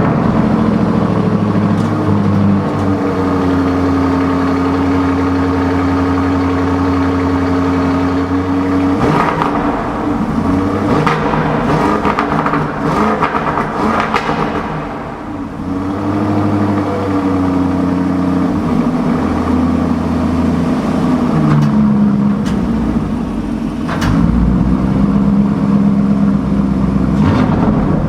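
Lamborghini Urus Performante's twin-turbo 4.0-litre V8 running at a steady idle, with a stretch of uneven throttle revs in the middle and a single sharp sudden sound about 24 seconds in.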